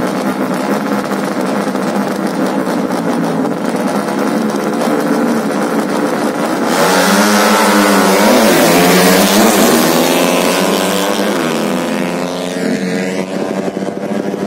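Racing underbone (bebek) motorcycle engines running steadily at high revs, then about seven seconds in a sudden louder launch. The engine pitch climbs and drops back with each gear change as the bikes accelerate away, fading after about twelve seconds.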